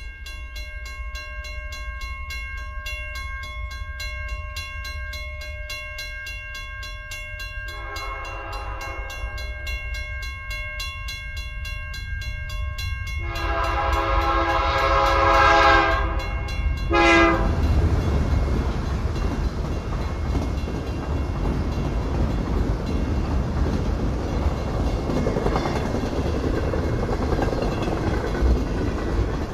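Railroad crossing bell dinging steadily while a freight locomotive's air horn sounds three times: a blast about eight seconds in, a longer one a few seconds later and a short one right after it. The freight train then passes the crossing with a loud rumble and clatter of wheels on the rails.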